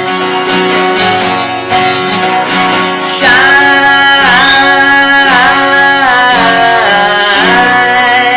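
Strummed acoustic guitar with a voice singing long held notes that bend and waver in pitch over the chords.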